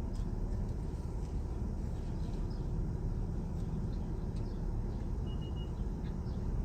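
Steady low rumble and hiss of a car's air conditioning running with the engine idling, heard inside the cabin. A brief high tone sounds about five seconds in.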